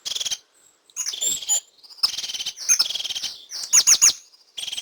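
Crested tit calling: several short phrases of high, thin notes and fast trills, with brief pauses between them.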